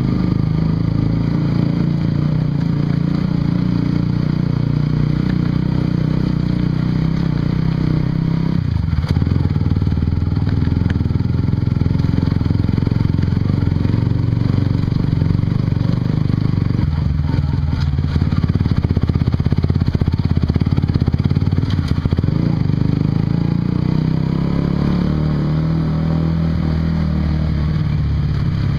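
Honda CBR150R's single-cylinder engine running through an aftermarket Yoshimura exhaust while the bike is ridden. The engine note shifts about nine seconds in and again around seventeen seconds in.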